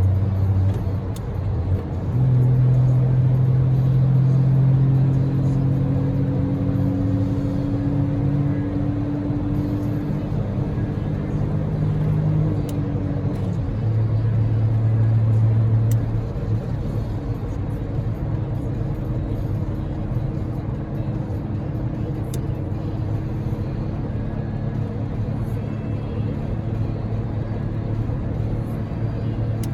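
In-cabin drone of a Daihatsu Move's 660 cc three-cylinder EF-VE engine and its tyres at motorway speed, under the hiss of heavy typhoon rain on the car. The engine note shifts in pitch a few times, rising gently a few seconds in.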